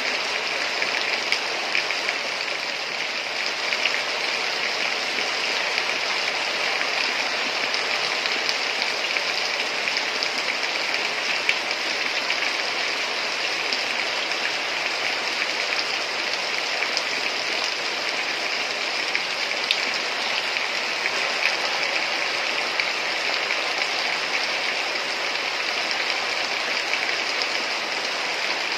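Heavy rain falling steadily: a dense, even hiss with small scattered drop ticks.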